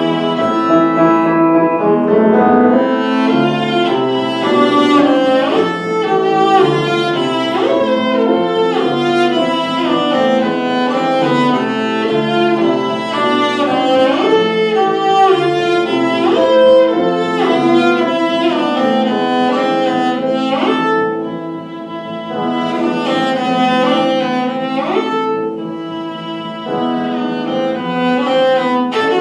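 A bowed string instrument playing live music, with quick runs of notes and several fast upward sweeps, getting quieter twice in the later part.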